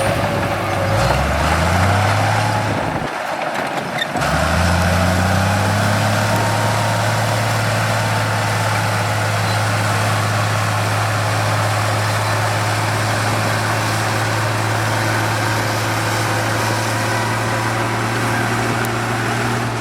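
Heavy construction machine's diesel engine revving up, dropping away briefly about three seconds in, then rising again and running steadily, with a faint whine above the engine note.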